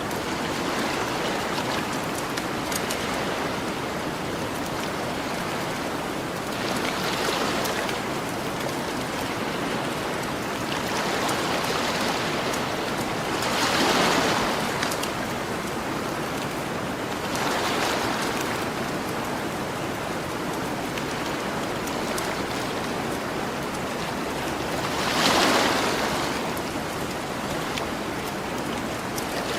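Ocean waves breaking and washing onto a beach, a steady surf hiss that swells every few seconds, most strongly about halfway through and near the end. Faint crackles of a campfire are scattered over it.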